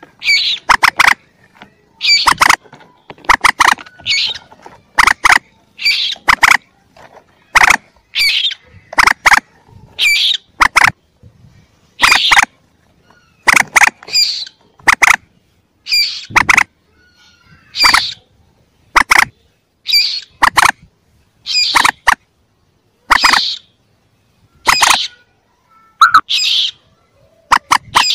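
Mandar chicks (young moorhens/rails) calling in a bird-trapping lure recording: short, sharp squeaky calls repeated about once a second, some in quick pairs.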